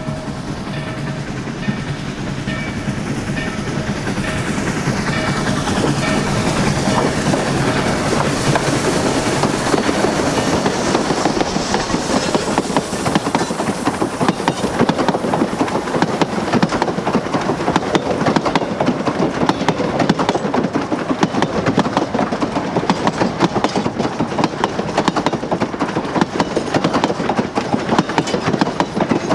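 Narrow-gauge steam train led by locomotive 493 drawing nearer, getting steadily louder through the first two-thirds. It then holds at full level with a dense rattle of wheels on rail.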